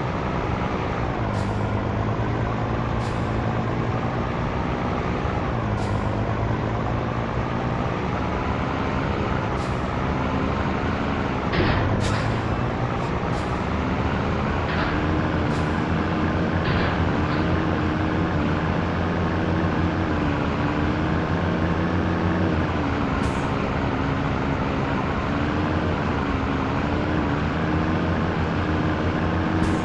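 Scania T113 truck's diesel engine running on the road, its note dipping and rising again a few times, with several short high clicks and one louder knock about twelve seconds in.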